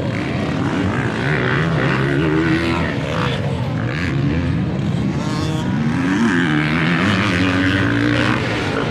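Motocross dirt bike engines revving up and down as they race, several overlapping engine notes rising and falling in pitch.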